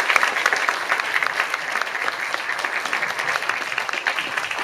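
Audience applauding, a dense, sustained clapping that eases off slightly.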